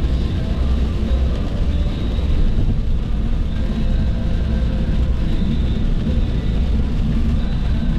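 Steady low road rumble of a car driving at highway speed, tyre and engine noise running evenly with no sudden events.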